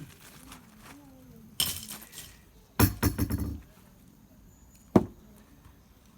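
An axe striking a hard log of firewood three times, each blow a sharp crack. The second blow is the loudest and is followed by about half a second of clattering.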